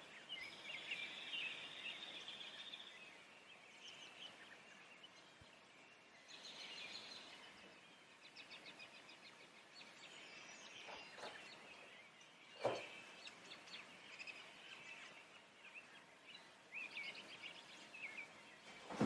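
A faint chorus of distant songbirds, several birds chirping and trilling over one another. A single sharp knock about two-thirds of the way through.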